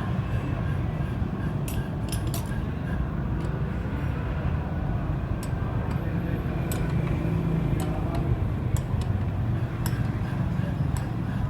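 Light metallic clinks of tools and engine parts being handled, a handful of sharp ticks scattered through, over a steady low rumble.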